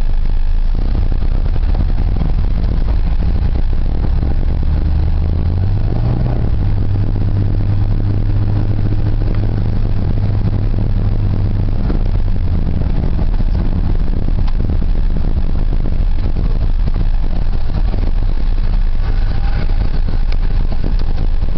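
A 1990 Ford F-150's 4.9-litre straight-six engine running as the truck is driven, over a constant low rumble. The engine note rises about four to six seconds in, holds steady for several seconds, then drops off about halfway through.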